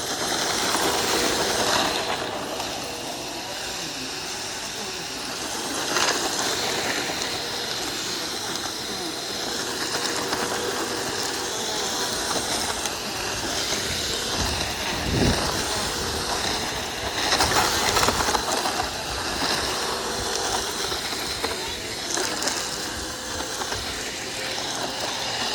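Vacuum cleaner running over grass: a steady hissing rush of air with a steady motor whine, getting louder about a second in.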